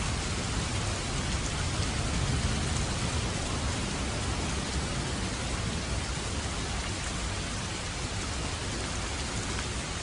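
Steady rainfall, an even unbroken hiss of rain on surfaces.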